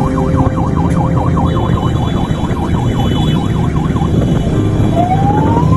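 Electronic siren on the move, sounding a fast yelp of rapid rises and falls, then switching near the end to a slow rising wail, over a loud rumble of engine and wind.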